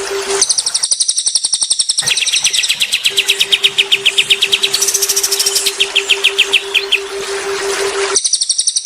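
Cililin and kapas tembak songbirds singing: fast, high trills of rapidly repeated notes that switch abruptly from one phrase to another several times. A steady, pulsing low tone runs beneath for much of it.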